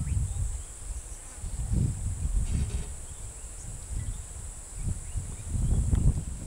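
Insects, cicadas or crickets, keeping up a steady high-pitched buzz, over a low, uneven rumble that swells about two seconds in and again near the end.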